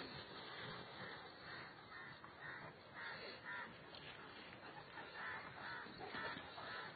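A bird cawing several times in short, harsh calls, faint, over an outdoor background hiss.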